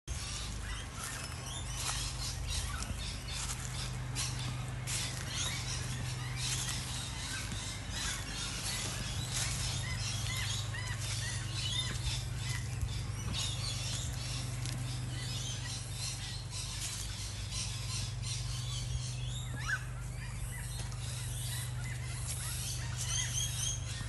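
Several birds chirping and calling, many short repeated chirps, over a steady low hum.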